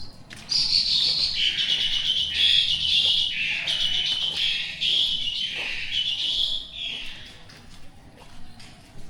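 A bird singing close by: a loud, high run of repeated phrases that starts about half a second in and stops about seven seconds in, over faint dripping rain.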